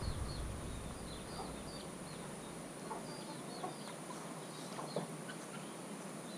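Birds calling faintly: a steady run of short, high chirps with a few lower calls scattered among them, over a soft outdoor hiss. A low rumble dies away in the first second or two.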